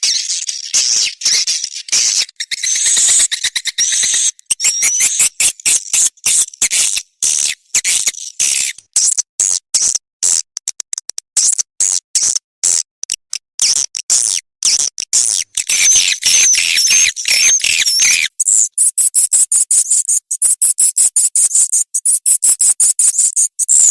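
Swiftlet lure recording of the kind played in swiftlet houses to call the birds in: rapid, dense high twittering chirps and clicks of swiftlets that stutter on and off many times a second, with a warbling high trill about two-thirds of the way through.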